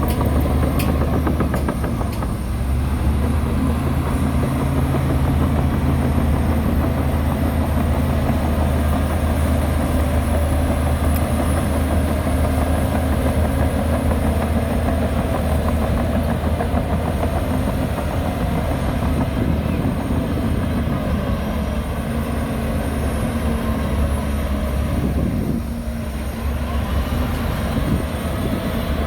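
Heavy diesel construction machinery running steadily with a deep, low engine drone, easing briefly near the end.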